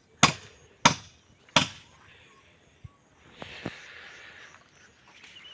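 A blade chopping into a tree trunk being felled: three sharp strikes about two-thirds of a second apart in the first two seconds, then the chopping stops. Near the middle comes a faint, noisy rustle.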